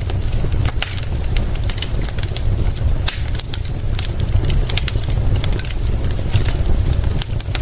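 Wood fire crackling with frequent irregular sharp pops, over a steady hiss of rain and a continuous low rumble.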